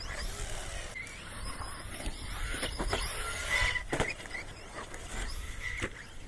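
Electric RC monster truck driving hard: the brushless motor whines up and down in short throttle bursts, with brief squeals and several sharp knocks of the wheels and chassis.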